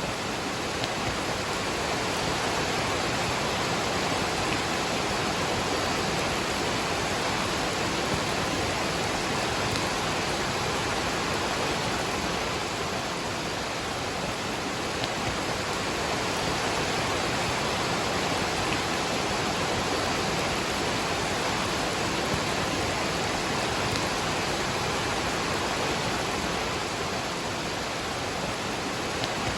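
Waterfall and rain: a steady, unbroken rush of falling water.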